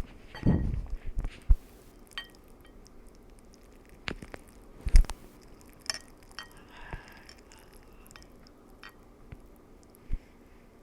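A person eating noodles: chewing and mouth sounds, with scattered short clicks and a few soft thumps.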